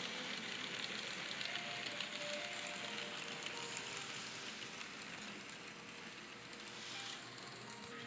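N scale model train running on its track: a steady, hissing rattle of small wheels on rail and the motor's whirr, easing off a little past the middle.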